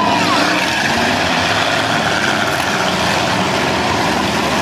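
Demolition derby cars' engines running and revving together: a loud, steady din of several engines, with a few quick rises and falls in pitch near the start.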